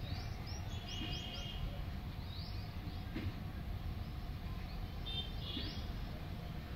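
Small birds chirping in short rising notes, in a few separate bursts, over a steady low rumble.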